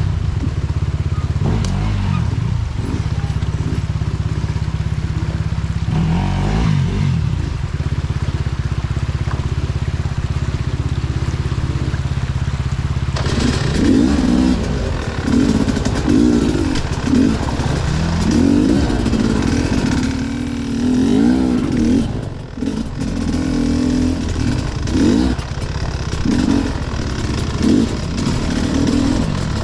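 Enduro motorcycle engine running at low, steady revs, then, about halfway through, revved up and down again and again under throttle.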